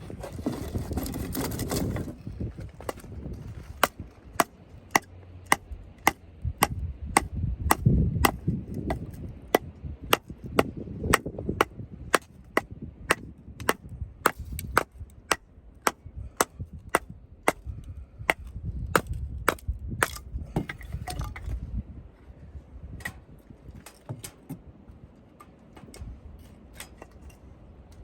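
A hammer driving tent pegs into the ground: sharp blows at a steady two or so a second for about sixteen seconds, then slower, scattered strikes.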